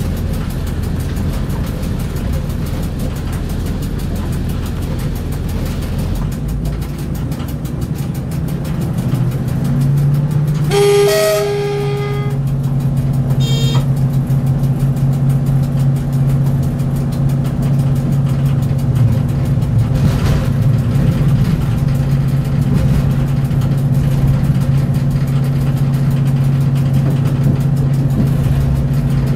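Train running, heard from inside the driver's cab: a steady rumble of engine and wheels on the rails. About eleven seconds in, the train's horn sounds for about a second and a half, followed by a short second toot. From about ten seconds in, a steady low hum from the traction motor or engine rises slightly and then holds.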